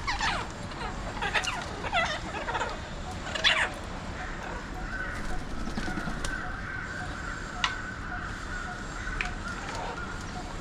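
Alexandrine parakeets giving a run of harsh, downward-sliding screeching calls in the first few seconds. After that a faint steady high tone carries on, with a few sharp clicks.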